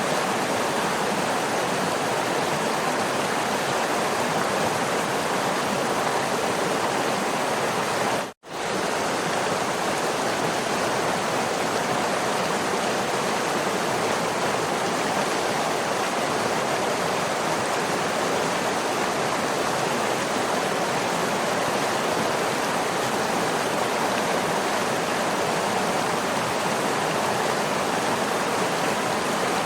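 Waterfall rushing in a steady, even roar of falling water. It drops out for an instant about eight seconds in, then resumes unchanged.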